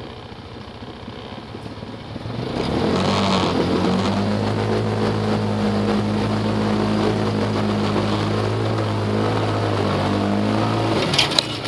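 Off-road vehicle engine revving up and held at steady high revs under load for about eight seconds, a recovery pull on a stuck side-by-side, then dropping back, with a few sharp clicks near the end.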